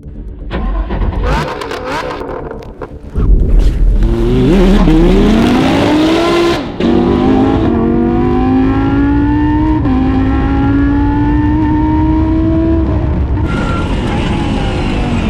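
A race car's engine accelerating hard. The revs climb, drop at an upshift, climb again through another shift, then run at steady high revs.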